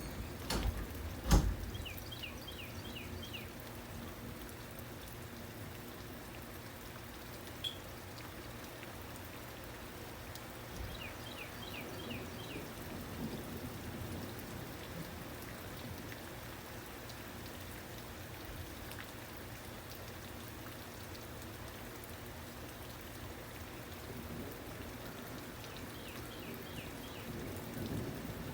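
Steady rain falling. About a second in there is a low rumble ending in a sharp thump. Short runs of high chirps come three times.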